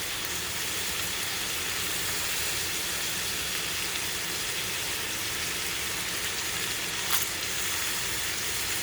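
Boneless chicken pieces sizzling steadily in oil in a frying pan, with one sharp click about seven seconds in.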